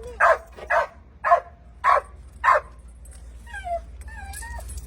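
A dog barking: five barks about half a second apart, then two short whines near the end.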